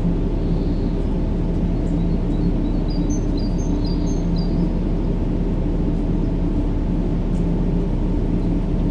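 Steady low droning rumble of a baby-sleep noise track, with a few faint high bird chirps about three to four seconds in.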